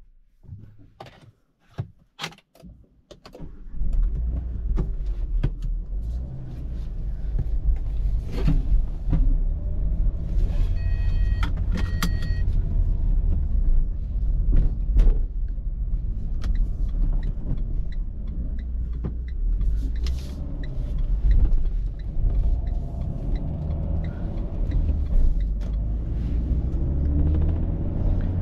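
Renault Captur's 1.2-litre TCe turbocharged four-cylinder petrol engine, heard from inside the cabin: a few clicks, then the engine starts about four seconds in and runs steadily. A short electronic dashboard chime sounds near the middle.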